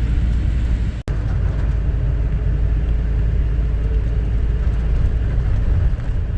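Tour bus engine and road noise heard from inside the cabin, a steady deep rumble as the bus climbs a hill. It breaks off for a split second about a second in.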